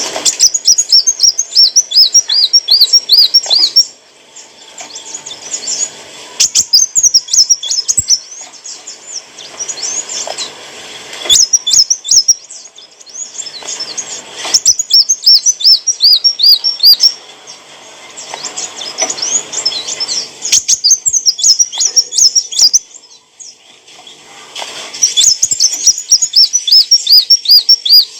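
A kolibri wulung (sunbird) singing in repeated bursts of quick, high chirping notes, each burst a few seconds long with short pauses between.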